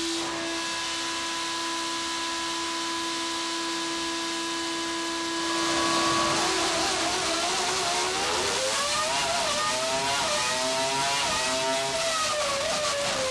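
Renault Formula One V10 engine running on a dynamometer. It holds a steady pitch for about five seconds, then revs up and down in uneven sweeps, climbing higher and dropping back near the end.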